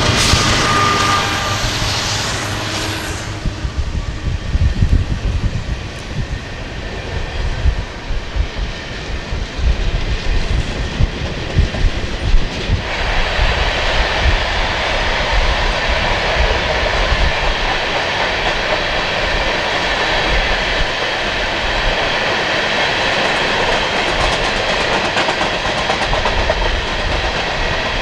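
BNSF coal train's empty hopper cars rolling past, their wheels knocking and clacking over the rail joints, then settling into a steady rolling rumble about halfway through. The diesel locomotive sound fades out in the first few seconds.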